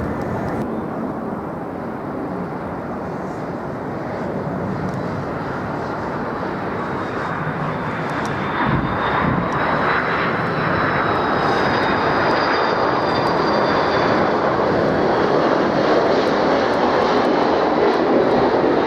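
Jet airliner on approach to land, its engine rush growing steadily louder, with a faint high whine about halfway through.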